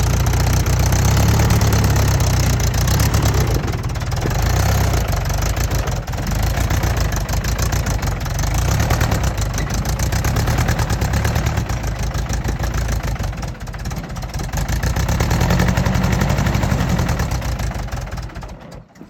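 Mahindra tractor's diesel engine running unevenly, its level dipping and picking up again several times, then dropping away at the very end: fuel starvation as the tractor runs out of diesel.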